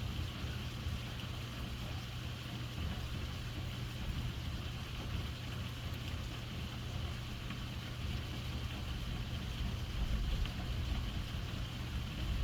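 Heavy rain falling in a downpour, a steady hiss of drops. A low rumble swells near the end.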